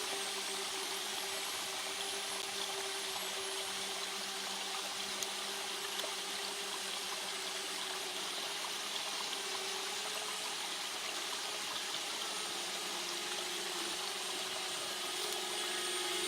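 Steady rush of a small waterfall and stream, with the hum of a DJI Spark drone's propellers hovering nearby as a few steady tones that shift slightly in pitch near the end.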